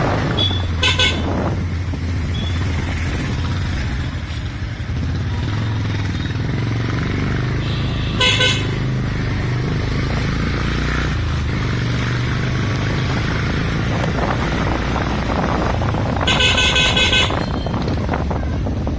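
Motorcycle engine running steadily while riding through traffic. Vehicle horns honk three times: briefly about a second in, again at about eight seconds, and in a longer, pulsing honk near the end.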